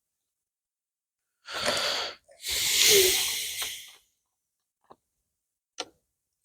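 A person breathing: a short breath in, then a longer hissing breath out with a brief voiced sigh in it. Two faint clicks follow near the end.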